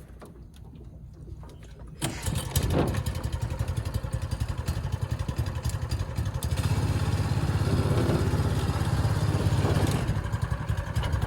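Lawnmower engine driving a homemade boat outboard comes in loudly about two seconds in and runs on with a fast, even pulsing, getting a little louder for a few seconds in the middle.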